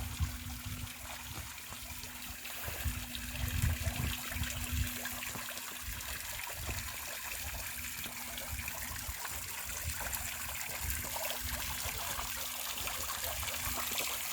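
Water cascading over an ornamental fountain's waterfall, a steady rushing and trickling splash.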